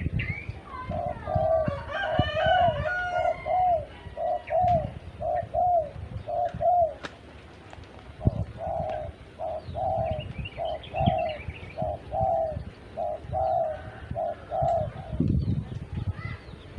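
Spotted dove (tekukur) cooing: two runs of its repeated phrase, the second starting after a short pause about halfway through, with fainter chirps of other small birds above it.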